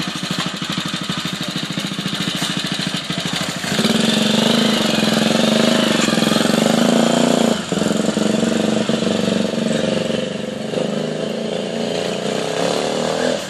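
1950 NSU Fox motorcycle's single-cylinder four-stroke engine running, first at an even putter of separate firing beats, then opened up and louder about four seconds in as the bike pulls away. It eases briefly in the middle and drops a little toward the end as the bike rides off.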